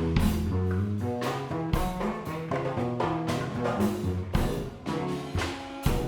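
Live band playing an improvised, jazz-leaning instrumental: bass line, guitar and drum kit, with regular drum hits.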